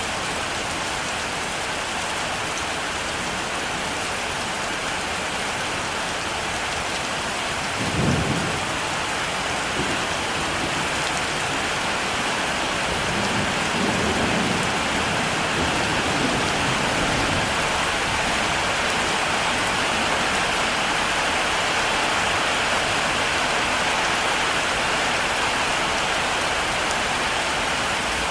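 Heavy rain falling steadily. A sharp clap of thunder about eight seconds in, then low thunder rumbling for several seconds.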